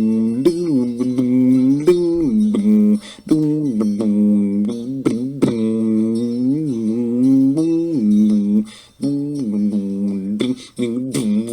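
A man's voice wordlessly vocalising a slow melody, standing in for the song's guitar line. He holds long low notes with small bends and pauses briefly twice.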